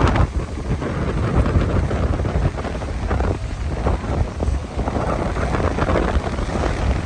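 Strong wind buffeting the microphone: a heavy low rumble with gusts of rushing noise that swell and ease.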